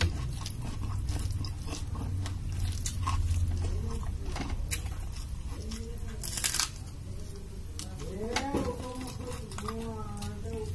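Close-up chewing and crunching of a mouthful of food, with many small crisp clicks and a loud crunch about six seconds in as a raw red onion is bitten. A few short hums near the end, over a steady low hum.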